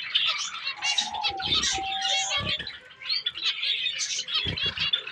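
A flock of small aviary finches chirping and calling at once, a dense overlapping chatter of short high notes, with a few low thumps mixed in.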